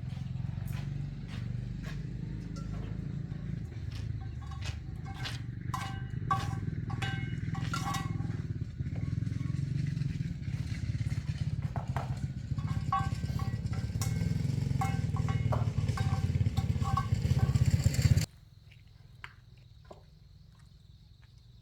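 An engine running steadily with scattered knocks over it, cutting off abruptly near the end.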